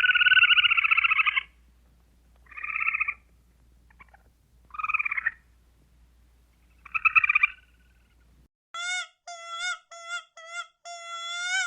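An animal gives four rasping, rapidly pulsed calls, the first and longest at the start and the others spaced about two seconds apart. About three-quarters of the way in, a cut brings a quick run of short, high, squeaky calls from a different animal.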